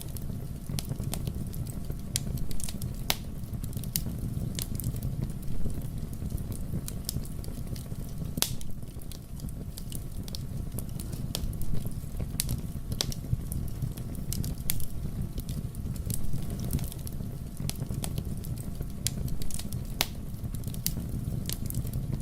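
Wood fire burning in a fireplace: a steady low rumble of the flames with irregular crackles and pops throughout, a few of them sharper and louder.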